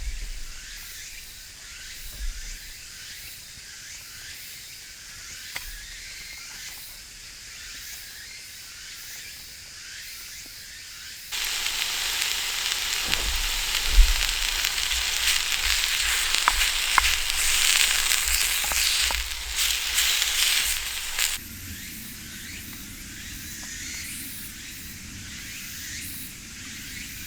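Food sizzling as it fries in a pan, with a few sharp pops. The sizzle is soft at first, much louder for about ten seconds from near the middle, then soft again.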